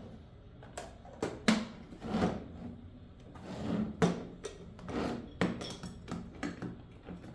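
Plastic parts of a drip coffee maker being handled: a string of sharp clicks and knocks with a few short scrapes, as pieces are opened, closed and fitted together.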